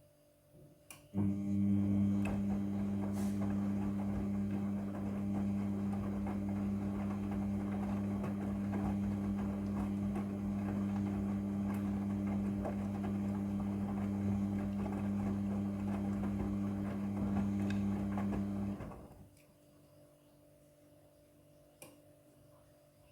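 Midea front-loading washing machine humming steadily with a rush of water, starting just after a click about a second in and cutting off after about seventeen seconds, as a pump or water valve runs during the wash cycle.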